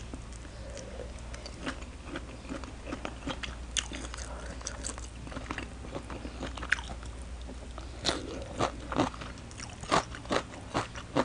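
Close-miked eating sounds: a shrimp being chewed with soft wet mouth clicks, then from about eight seconds in, crisp crunching bites of shredded green mango salad, several sharp crunches a second.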